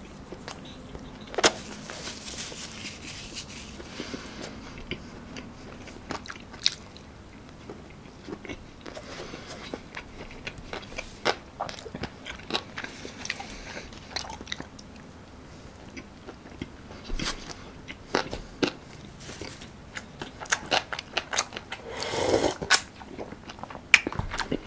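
A person chewing and biting food close to the microphone, with scattered sharp mouth clicks and crunches. A louder, denser burst of noise comes near the end.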